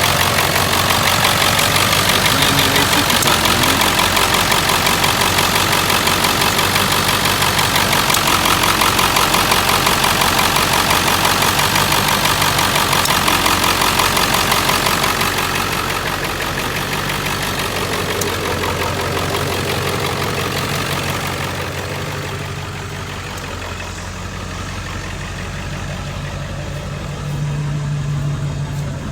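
1999 Ford F-350's 7.3 Power Stroke turbo diesel V8 idling, with a steady fast clatter. It gets quieter about halfway through and again a few seconds later.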